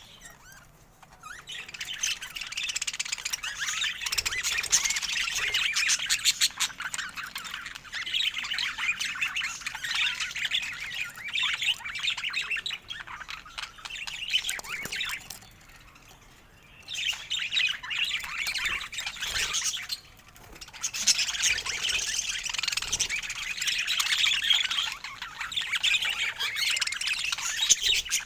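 Budgerigars chattering and warbling in fast, dense streams of chirps and squawks, with a few short lulls.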